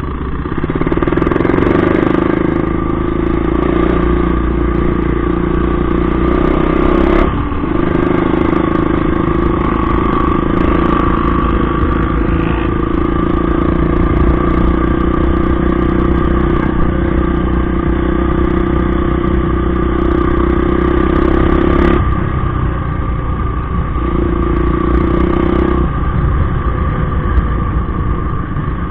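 Motorcycle engine running at a steady speed, a continuous drone with short dips about 7 seconds in and again at about 22 seconds.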